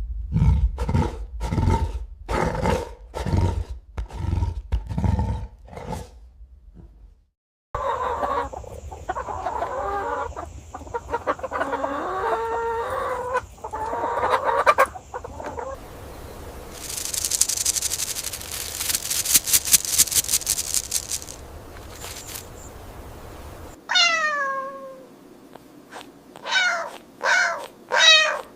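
Animal calls in several changing stretches: first a run of evenly spaced calls, about two a second, then a busy mix of calls, a few seconds of high buzzing, and near the end one sharply falling call followed by a few short calls.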